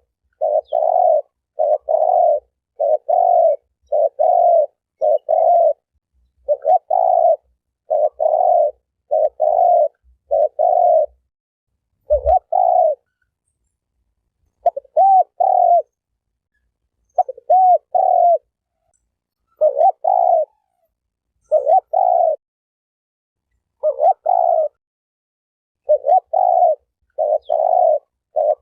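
Spotted dove (terkukur) cooing over and over in short repeated coos, with a longer pause about halfway through.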